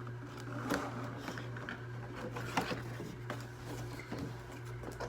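Action-figure packaging being pulled and worked at by hand: scattered crinkles, clicks and rustles as the figure is worked loose from its box.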